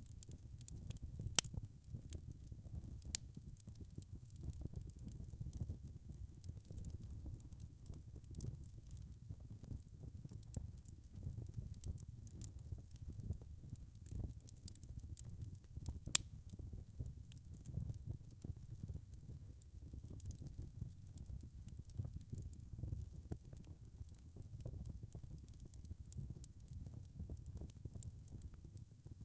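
Wood fire crackling in a fireplace: a steady low rumble with scattered sharp pops and crackles, two of them louder, about a second and a half in and around sixteen seconds.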